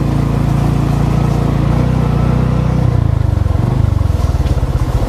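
Motorcycle engine running steadily; about three and a half seconds in, the pitch drops and it settles into a slow, even chugging.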